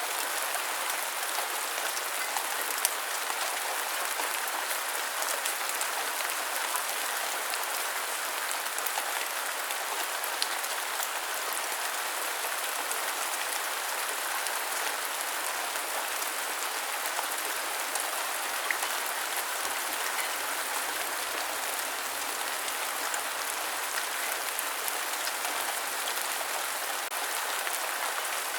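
Steady rain: an even hiss with little low rumble, with scattered sharper drop ticks now and then.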